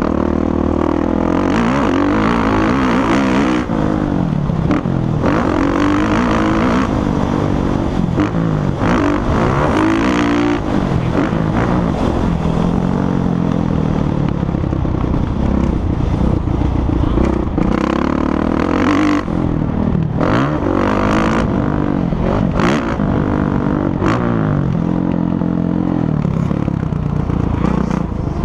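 Motocross bike engines revving up and down as riders accelerate and shift, their pitch repeatedly rising and falling, with more than one bike heard at once.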